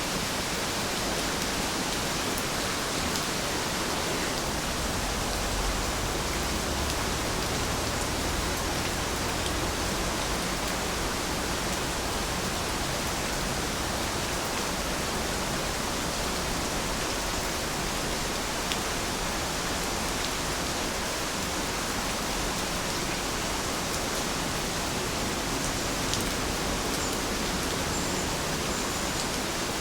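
Steady rainfall, an even hiss with occasional faint drop ticks.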